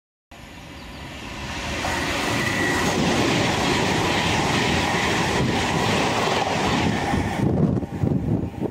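Class 390 Pendolino electric train passing at speed: a rush of wheel and air noise that cuts in suddenly, builds over the first couple of seconds and holds steady. Near the end it breaks into a few louder wheel knocks as the last carriages go by, then drops away.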